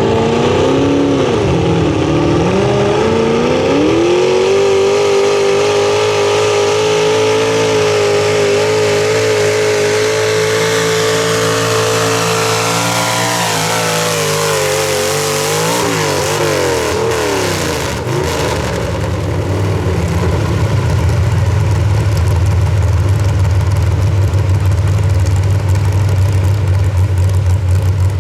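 Pro stock mini truck pulling engine at full throttle on a pull: the revs climb about four seconds in and hold high and steady for around nine seconds, then waver and fall away as the throttle comes off. In the last ten seconds a loud, steady low rumble takes over.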